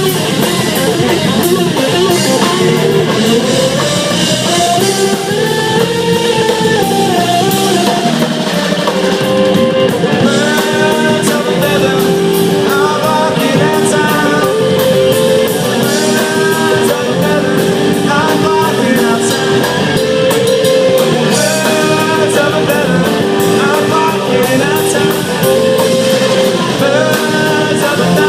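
Live rock band jamming: guitar playing bending lead lines over a drum kit, loud and continuous.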